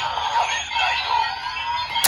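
CSM Decadriver ver.2 toy belt playing an electronic sound effect through its built-in speaker: a loud, dense synthesized whirl of many sliding tones, part of its Faiz Final Attack Ride sound.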